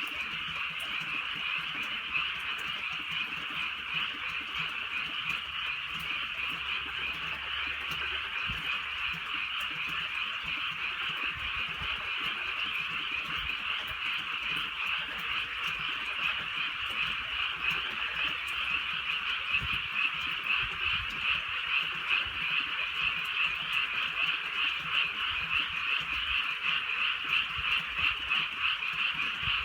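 A dense chorus of many frogs calling at once, a continuous massed trill that turns more distinctly pulsing in the second half.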